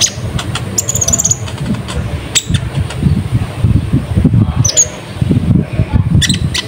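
Konin (kolibri ninja) sunbird chirping: scattered short, sharp high-pitched notes and a brief high trill about a second in, over a low rumbling noise.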